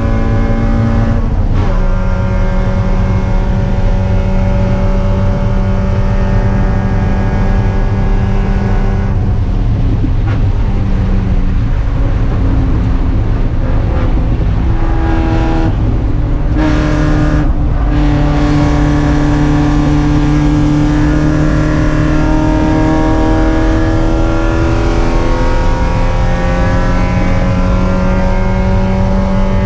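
Spec Miata race car's four-cylinder engine running hard and loud, its pitch stepping at gear changes with a couple of brief dips about halfway through, then rising steadily as it accelerates through the last third.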